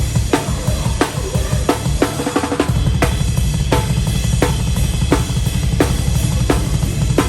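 Close-miked rock drum kit played hard: a snare crack about every 0.7 s over fast bass-drum strokes, with cymbals. A little under three seconds in, the kick turns into a steady rapid run.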